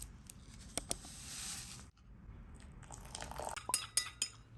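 Crunching, crackling handling noises with a few sharp clicks; a soft hiss in the first couple of seconds cuts off suddenly, and a quick run of clicks comes near the end.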